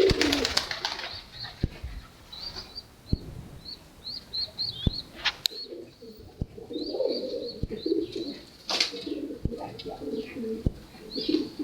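Domestic pigeons: a burst of wing flapping at the start and again about nine seconds in, with cooing and repeated short, high peeps throughout.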